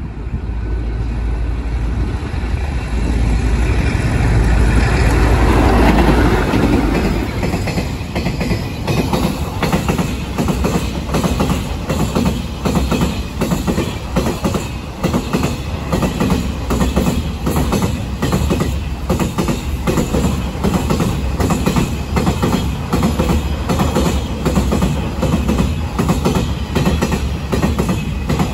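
A diesel-hauled train passing close by. The locomotive's heavy engine drone swells to its loudest about five or six seconds in and falls in pitch as it goes by. The wagons then roll past with a steady, rhythmic clickety-clack of wheels over the rail joints.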